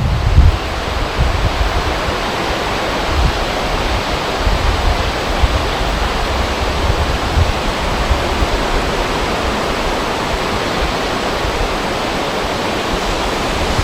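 Steady rushing of wind and river water. Low wind gusts buffet the microphone in the first half-second, then the sound settles into an even rush.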